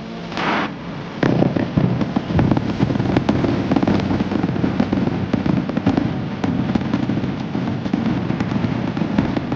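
A short hiss, then from about a second in a loud, dense run of rapid cracks and pops over a low rumble.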